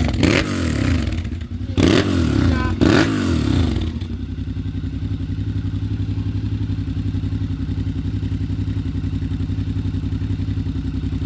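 Suzuki DL650 V-Strom XT's V-twin engine running through its full exhaust system. It is blipped several times in the first few seconds, with the pitch rising and falling, then settles to a steady idle.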